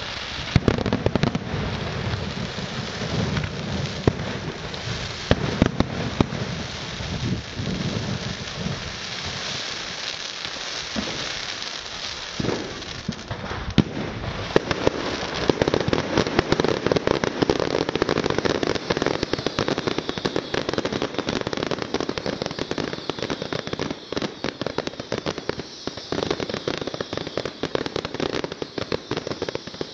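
Fireworks display: a continuous crackle of many small pops like heavy rain, with louder sharp bangs scattered through it.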